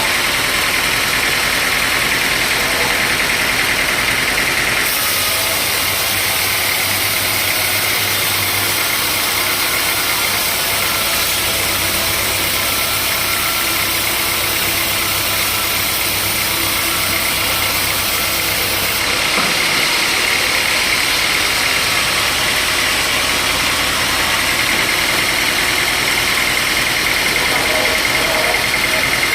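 Sawmill machinery running with a steady engine-like drone. Its sound changes about five seconds in and changes back about nineteen seconds in.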